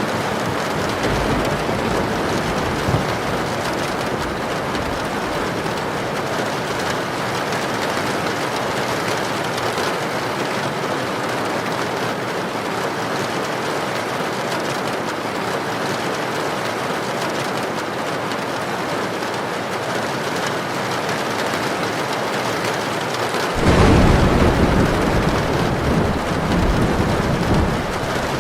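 Heavy rain with a steady hiss. Near the end, a low rumble of thunder comes in suddenly and lasts a few seconds.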